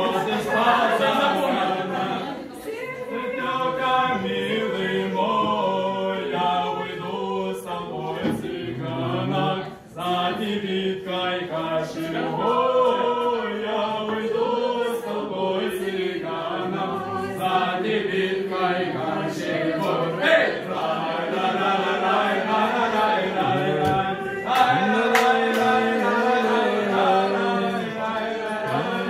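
Several voices singing together without instruments, over a low held note.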